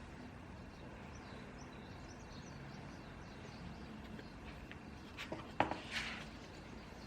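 Quiet room ambience with faint bird chirps in the first few seconds, then a few sharp clicks and taps about five to six seconds in, as of small objects handled at a study desk.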